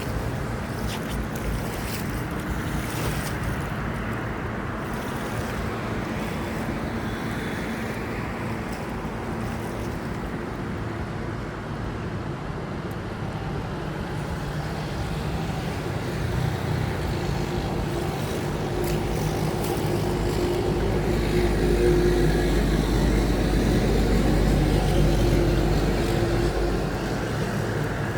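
Excavator's diesel engine running steadily, with a faint hydraulic whine; it works harder and gets louder with a deep rumble for several seconds about two-thirds of the way in, then eases back.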